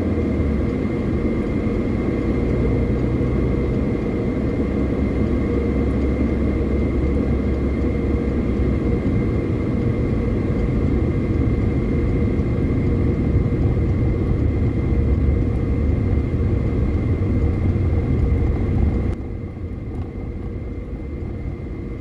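Car driving on a highway: steady road and engine noise heard from inside the car. The noise drops abruptly and gets duller near the end.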